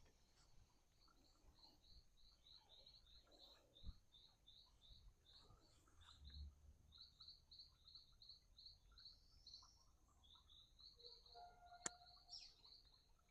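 Faint bird calling in a long series of short, high chirps, about three a second, pausing briefly midway, over a steady thin high-pitched tone. A single sharp click comes near the end.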